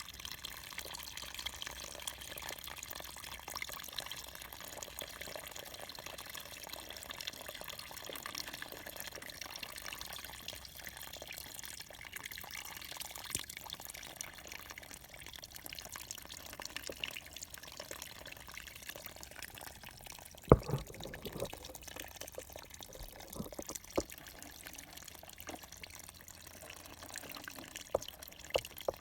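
Water trickling and dripping, with many small clicks and splashes. There is a sharp knock about two-thirds of the way through, followed by a few lighter ones.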